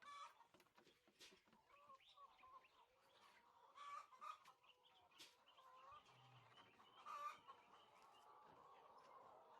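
Chickens in a poultry house clucking softly, many short overlapping calls, with a few sharp clicks among them.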